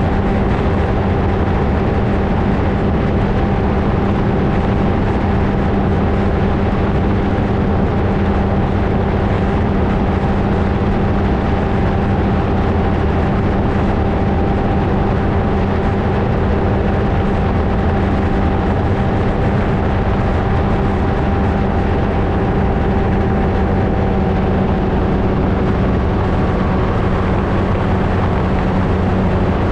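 Flightstar II ultralight's engine and propeller running steadily at an unchanging pitch, heard close up from a camera mounted on the aircraft.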